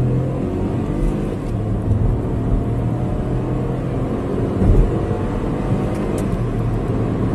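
Car with a 1.0-litre three-cylinder turbo petrol engine and seven-speed dual-clutch gearbox under a full-throttle 0-100 km/h run, the engine's note steady with road rumble.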